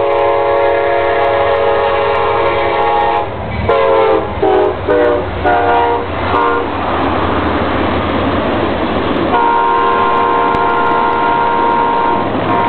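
Amtrak passenger train's locomotive horn: a long blast, then about five short blasts falling in pitch as the train passes. A few seconds of rushing train noise follow, then the horn sounds again near the end.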